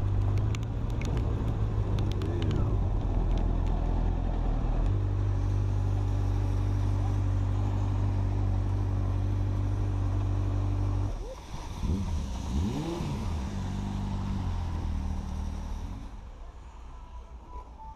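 Motorcycle engine running steadily at idle, then revved up and back down twice about eleven to thirteen seconds in, before settling and getting quieter near the end.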